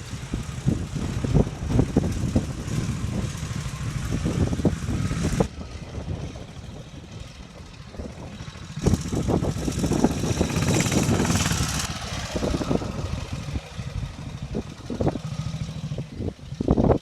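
Norton 16H motorcycle's single-cylinder side-valve engine running as the bike is ridden along the road. It grows quieter about five seconds in and louder again from about nine seconds.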